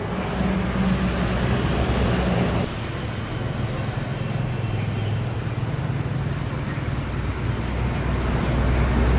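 Busy road traffic with heavy trucks' engines running as they pass, a steady low engine hum over tyre and road noise. The sound shifts abruptly about three seconds in, and the low rumble grows louder near the end as a truck approaches.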